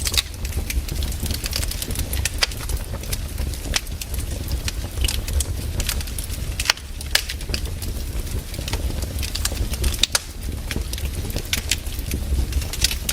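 Wood fire crackling in a fireplace, with frequent irregular sharp pops over a steady low rumble.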